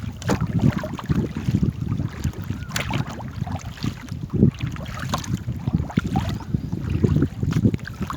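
Small paddled boat on a river: irregular water splashing and sloshing, with wind rumbling on the microphone.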